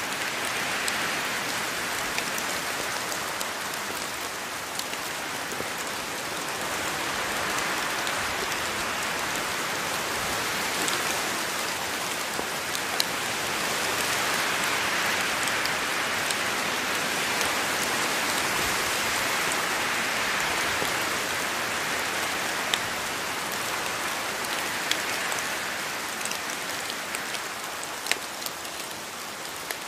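Steady rain falling through rainforest foliage, a dense patter with sharper individual drops landing close by, swelling and easing gently in intensity.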